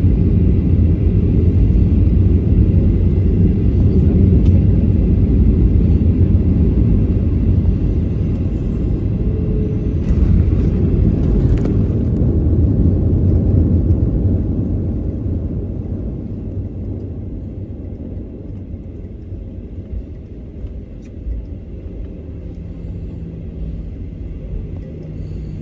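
Boeing 737-800 cabin noise at a window seat: the steady low rumble of the engines and airflow, loud for the first half, then easing off and settling about halfway through.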